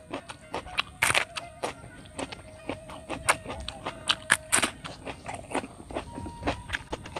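Crisp crunching as raw green vegetables are bitten and chewed, an irregular run of sharp crunches several times a second, the loudest a little after one second in and around three to four and a half seconds in. A faint steady high-pitched tone sits behind it.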